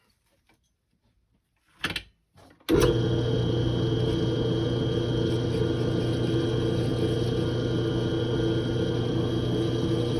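Electric drill motor starts abruptly about two and a half seconds in and runs steadily, with a few short knocks just before. It is enlarging a steel engine-mount spacer's bolt hole with a bigger bit, after a 10.25 mm bit proved too small for an almost 11 mm bolt.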